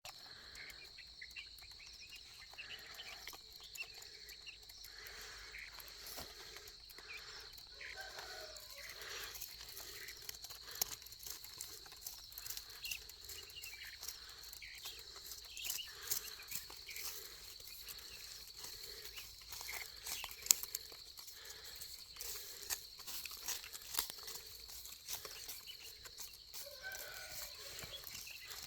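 Soft, scattered peeping calls of black francolin chicks while feeding, with many small clicks and rustles on the ground, over a steady high insect drone.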